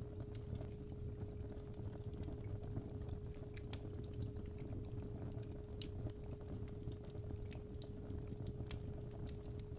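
Fireplace fire crackling with irregular sharp pops over a low rumble, under a steady 417 Hz sine tone.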